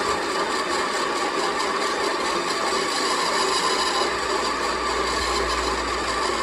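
Workshop machinery running steadily, a continuous mechanical noise of a power tool or machine at work on metal, with no pauses or strikes.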